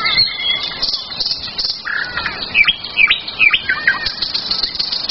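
Songbirds singing, several songs overlapping, made of quick chirps and sweeping whistled notes, busiest about halfway through.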